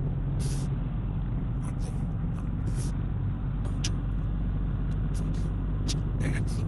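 Car driving, with a steady low rumble of engine and road noise and a few faint scattered ticks.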